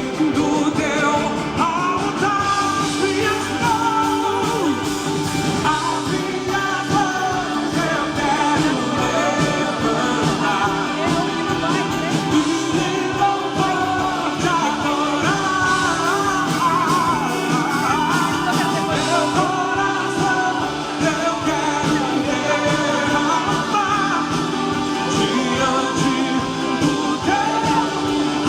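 Live gospel worship music: singing voices over a steady band accompaniment, with no clear words.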